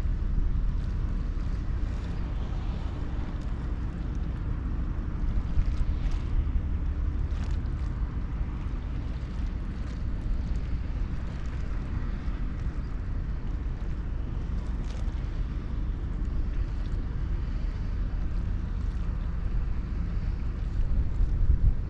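Ro-Ro passenger ferry under way: a steady low rumble, with wind buffeting the microphone in irregular gusts.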